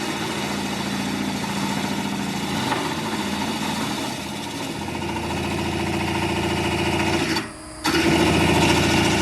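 Nova Viking drill press running, with the bit drilling a hole in steel; the sound drops away briefly about seven and a half seconds in, then comes back louder.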